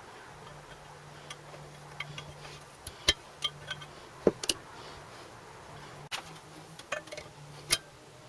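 Irregular clicks and light knocks, over a faint low hum that comes and goes.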